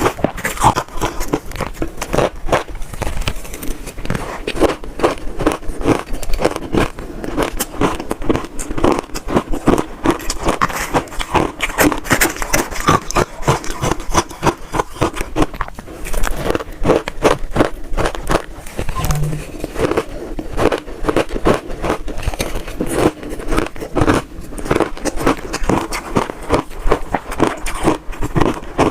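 Close-up crunching of red shaved ice being bitten and chewed: a fast, continuous run of crisp crackling crunches.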